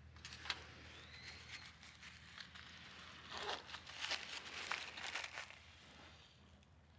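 Camping gear being handled: crinkling and rustling with several sharp light clicks and taps, busiest about three to five and a half seconds in.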